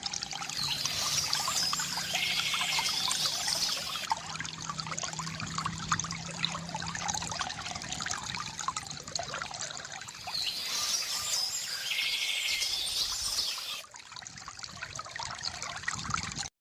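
Water trickling and pouring from a bamboo fountain, with birds chirping twice: near the start and again about ten seconds in.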